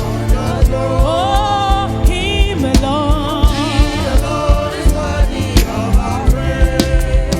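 Gospel worship music with singing over a steady drum beat and bass.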